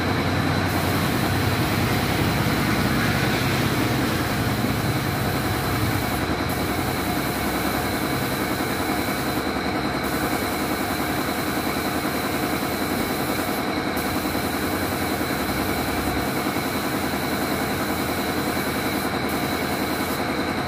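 Old motorcycle's engine idling steadily after an engine overhaul, running a little louder for the first few seconds and then settling.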